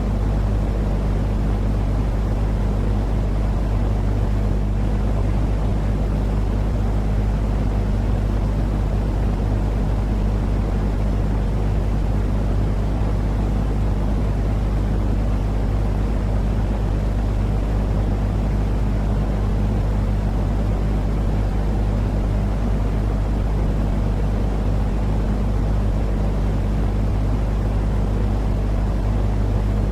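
Steady, unchanging low rumbling noise with a constant hum underneath, played as soothing 'white noise' for lulling a baby to sleep.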